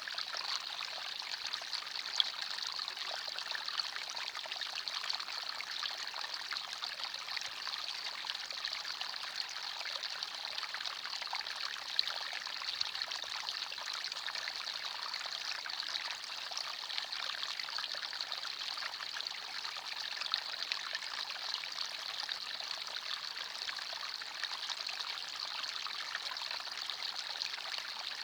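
Small forest stream babbling and trickling over stones, a steady bright splashing with small irregular drips and plinks.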